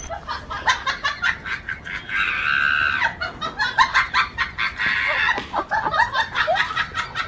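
Chickens clucking and squawking in quick, short calls, with a few longer, drawn-out squawks in the middle.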